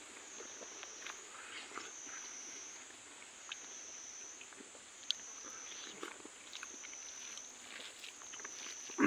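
Close eating sounds: a person chewing food, with scattered small wet mouth clicks and smacks. A faint high whine that rises and falls about once a second runs underneath.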